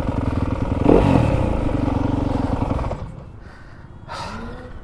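Fantic enduro dirt bike engine running at low revs, with a short blip of the throttle about a second in that falls back. About three seconds in the engine cuts off suddenly, leaving a heavy breath from the rider near the end.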